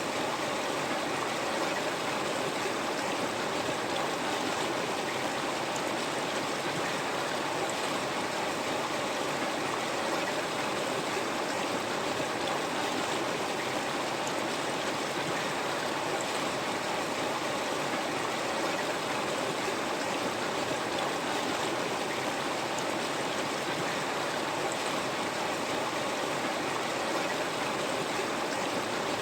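A river flowing: a steady, even rush of running water with no breaks.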